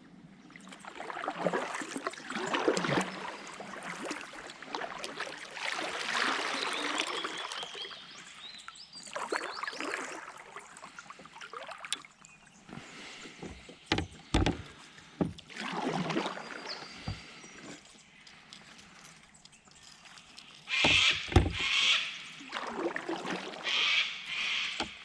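Kayak on the water: paddle or hull swishes and water sloshing come and go, with a few sharp knocks on the hull about halfway through.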